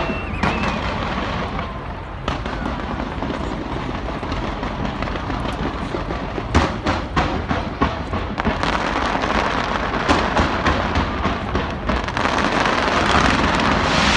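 Aerial fireworks bursting in a continuous barrage, with rapid crackling pops that grow denser from about halfway through.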